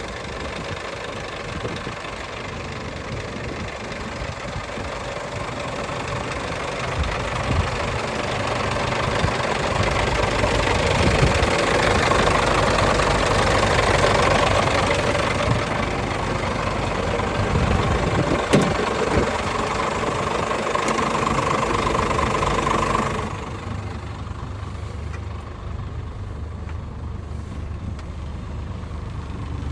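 Scania R440 truck's six-cylinder diesel engine running, growing louder over several seconds and then dropping back abruptly about three-quarters of the way through. There is one sharp knock a little past the middle.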